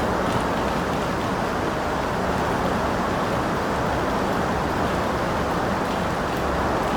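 Steady rain falling, an even hiss and patter with a few faint drop ticks.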